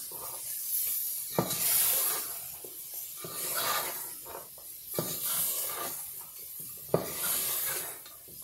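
Chicken pieces and spices sizzling in oil in a pot, the hiss swelling and fading as a spatula stirs them. The spatula knocks against the pot three times.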